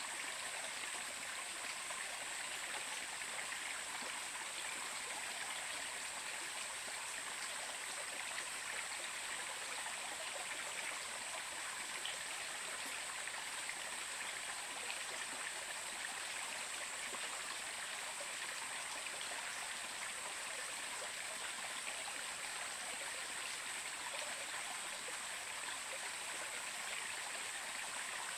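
A stream of water running steadily: an even rushing and trickling with no breaks. A thin, steady high-pitched hiss sits above it.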